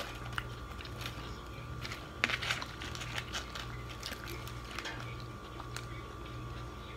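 Quiet close-up chewing of a tuna sandwich and potato chips, with scattered small mouth clicks and crunches and a short cluster of them about two seconds in. A faint steady hum runs underneath.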